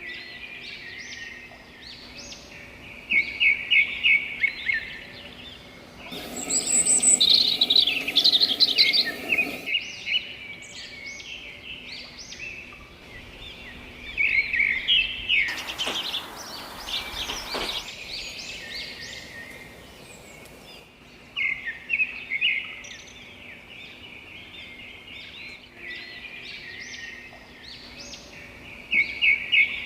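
Several songbirds chirping and singing: quick series of high chirps and trills that come in bursts every few seconds, over a faint steady background hiss, with a brief rush of noise about halfway through.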